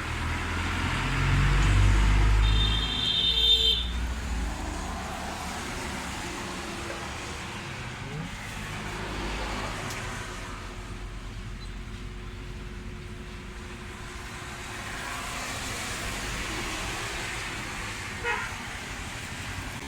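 Road traffic noise, with a vehicle passing loudly in the first few seconds and a short horn toot about three seconds in, then steady traffic background. A brief sharp knock comes near the end.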